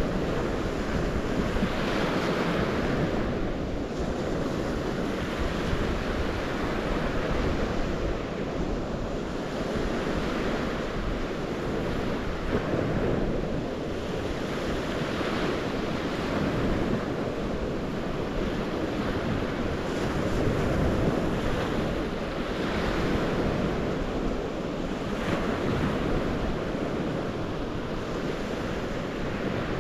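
Rushing water, a steady noise that swells and eases every two to three seconds.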